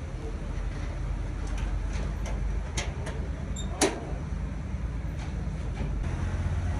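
Steady low engine-like rumble of running machinery, with a few sharp metallic clicks and knocks, the sharpest about four seconds in.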